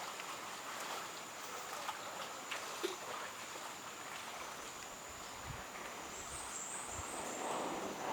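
Outdoor riverside ambience: a steady hiss with a thin, unbroken high tone, a few faint knocks, and a short run of faint high chirps about six to seven seconds in.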